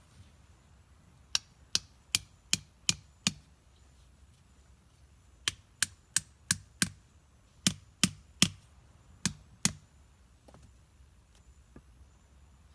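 Sharp chopping blows, about two to three a second, in four short runs of six, five, three and two strikes, with brief pauses between runs.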